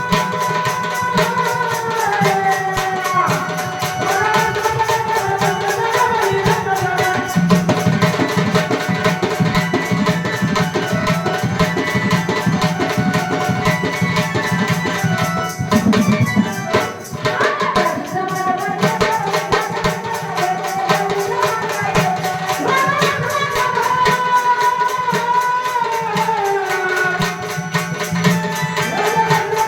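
A woman singing a Marathi devotional Ramayana song with a gliding melody, over tabla and jingling rattle or tambourine keeping a steady rhythm.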